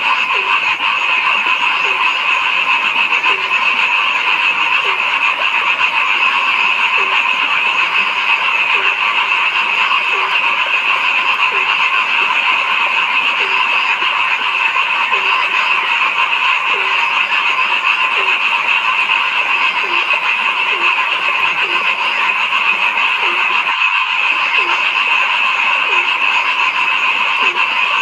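A dense chorus of frogs calling together in a steady, unbroken wall of sound. One lower-pitched frog gives short croaks, roughly one a second, over it. The sound breaks off for a split second about three-quarters of the way through.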